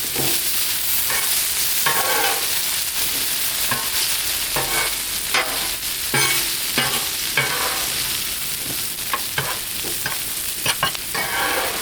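Potatoes and vegetables sizzling in oil on a Blackstone griddle's steel top, while a metal spatula scrapes and clinks against the griddle again and again as they are stirred and turned.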